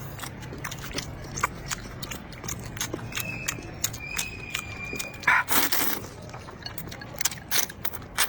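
Close-up wet chewing and lip-smacking while eating, a rapid irregular run of little clicks and smacks. A louder burst of smacks comes about five seconds in, and a faint thin high whistle runs for about two seconds in the middle.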